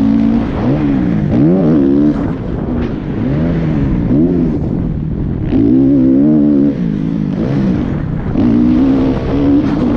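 Motocross dirt bike engines revving, the pitch climbing and dropping again and again as the throttle is worked, with stretches held at high revs for about a second.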